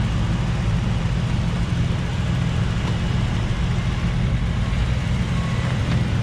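Motor vehicle engine running steadily, a low, even hum with no change in speed.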